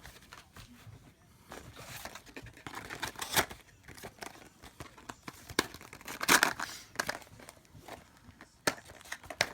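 Plastic and cardboard packaging of a Pokémon card collection box being torn and crinkled open: irregular sharp cracks and rustles, loudest about six seconds in.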